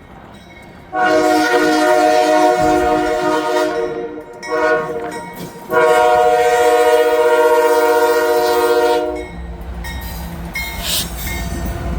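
Norfolk Southern freight locomotive sounding its multi-tone air horn: a long blast, a short one and another long one, the crossing signal as it approaches the grade crossing. After the horn stops, the low rumble of the train rolling past comes in.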